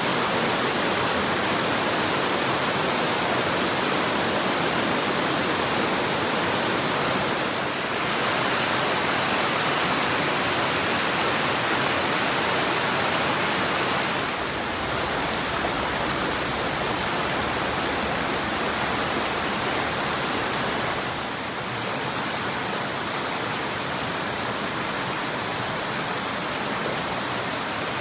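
Waterfall: a steady rush of falling water, its level dipping slightly and changing a few times.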